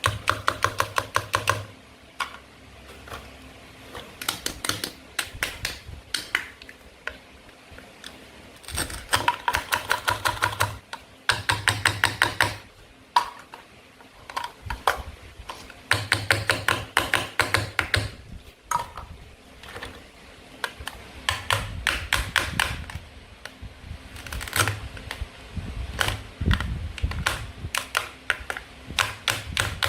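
Bursts of rapid, sharp clicking and tapping, about eight to ten clicks a second, from toy play food being chopped with a toy knife on a cutting board.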